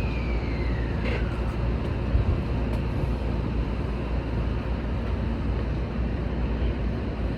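Seibu 20000 series electric train running on the line: a steady low rumble of wheels on track. Over the first second and a half a high tone glides down in pitch and fades.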